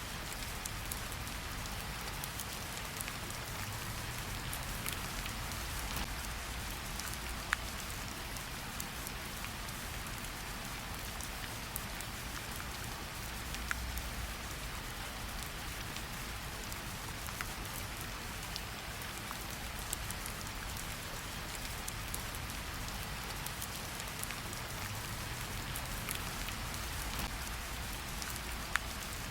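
Steady rain falling, an even hiss of patter with scattered individual drops ticking, a few sharper drips standing out now and then.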